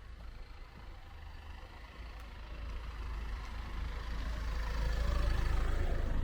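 A motor vehicle approaching on the street, its engine and tyre noise growing steadily louder to a peak near the end.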